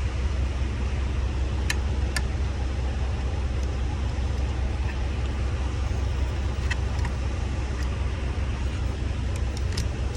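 Steady low rumble of an idling diesel truck engine. A few faint light clicks of small parts being handled come through it.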